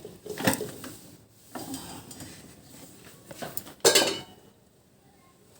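Utensils and dishes clinking and scraping as food is served onto a plate, with separate knocks and the loudest clatter about four seconds in.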